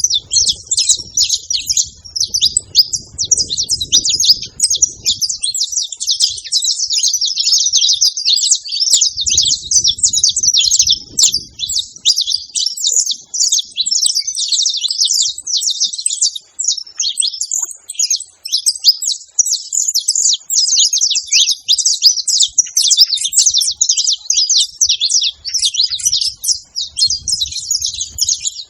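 Saffron finch (canário-da-terra) singing: a long, unbroken run of rapid, high chirps and trills.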